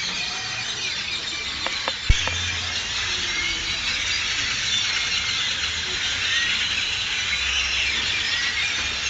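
A dense chorus of many birds chirping and calling at once, a continuous high chatter. There is a sharp click about two seconds in.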